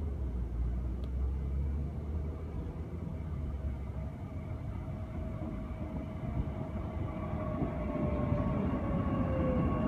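Queensland Rail electric multiple-unit train approaching along the platform and running in alongside. A motor whine falls slowly in pitch through the second half, and the rumble of wheels on rail grows louder as the train reaches the microphone.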